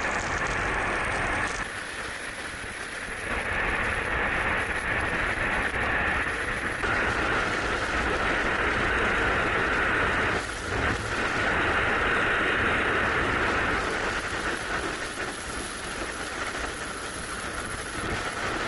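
Steady rushing noise of air in freefall skydiving. It shifts abruptly in tone a few times, with a brief drop about ten and a half seconds in.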